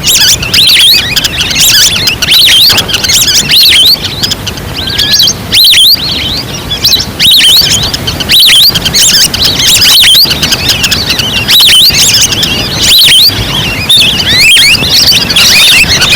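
Lure recording of a wild-duck flock: a dense, loud chorus of many short, high chirping calls overlapping without a break.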